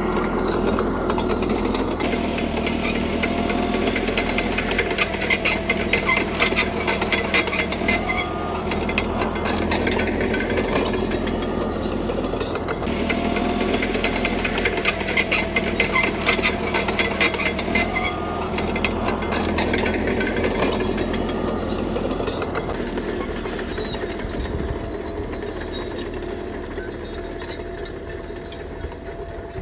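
Caterpillar D3K crawler bulldozer at work: its diesel engine runs steadily under the rapid clatter and squeal of its steel tracks, which comes and goes in stretches of several seconds as it moves. The sound gets quieter over the last few seconds.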